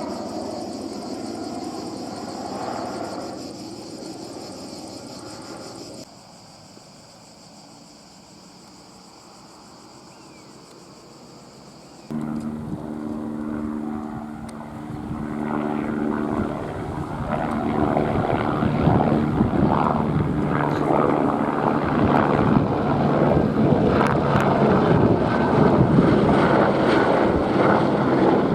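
Airbus AS350 single-turbine helicopter rotor and engine, heard across several edited clips. In the latter half, steady low rotor tones build and grow louder as it passes close.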